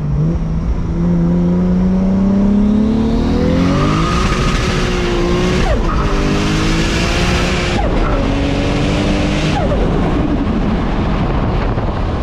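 Turbocharged Toyota Supra MK4 inline-six pulling hard at full throttle, its revs climbing and then falling back sharply three times, about six, eight and nine and a half seconds in, at the upshifts, with a hiss over the top during the pull. After the last drop the engine settles to a lower, steadier run.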